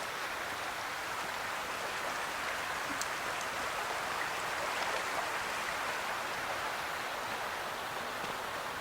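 Creek water running: a steady, even rush of flowing water.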